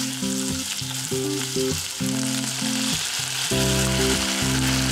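Sliced lotus root sizzling in sesame oil in a frying pan as it is stir-fried and tossed, with a steady hiss throughout, over background music.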